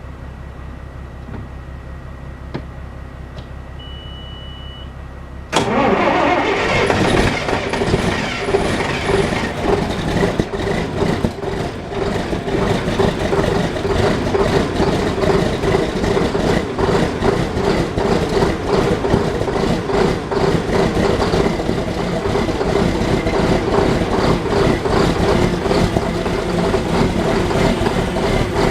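John Deere 8770 tractor's diesel engine cold-started after weeks of standing in the cold. After a low steady sound and a short high beep, the engine fires about five seconds in and runs on at a steady idle. It was slow to catch; it almost looked like it wasn't going to go.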